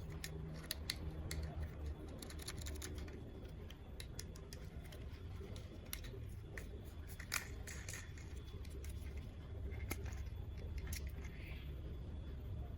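Faint handling of toy packaging and plastic toy parts: scattered small clicks and a few short rustles over a low steady hum.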